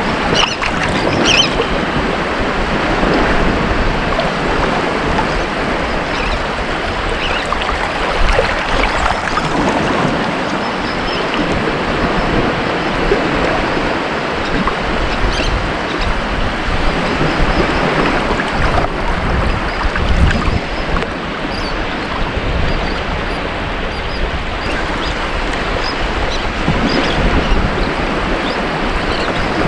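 Ocean waves breaking and washing up a beach, a continuous rushing surf that swells and eases every few seconds.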